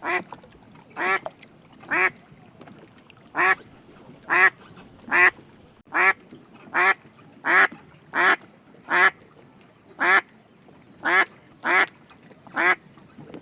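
Duck quacking: single short quacks, one roughly every second, about fifteen in all.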